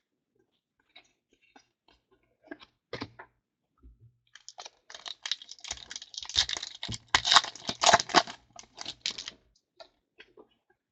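Foil trading-card pack wrapper being torn open and crinkled, with small handling clicks first and a dense crackling run through the middle.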